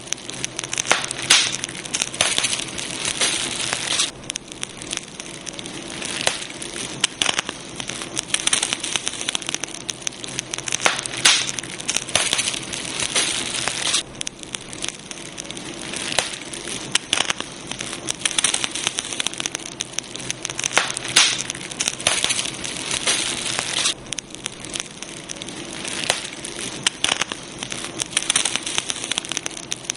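Wood fire crackling, with a dense run of sharp pops and snaps over a steady hiss.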